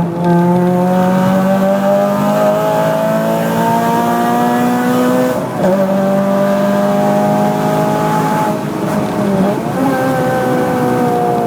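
Honda Civic Type R FN2's 2.0-litre i-VTEC four-cylinder, breathing through a Gruppe M intake and Martelius exhaust, pulling under load with its pitch rising slowly. Twice the pitch drops at a gear change and then climbs again.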